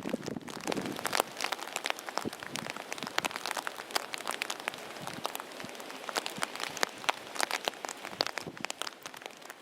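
Heavy rain falling during a thunderstorm, with a steady hiss and many sharp drop impacts striking close by.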